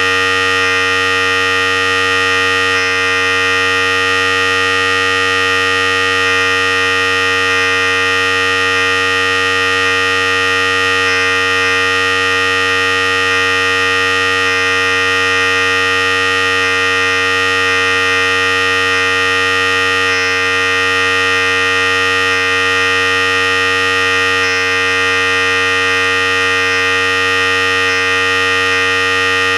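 Philips Series 5000 electric hair clipper running steadily, a constant buzzing hum that does not change.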